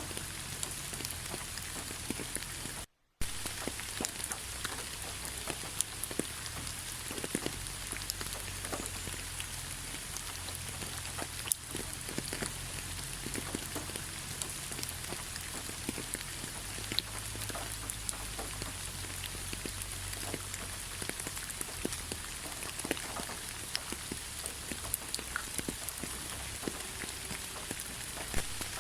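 Steady rain falling on a forest road: an even hiss with many separate drops ticking close by. About three seconds in, the sound cuts out to near silence for a fraction of a second, then carries on.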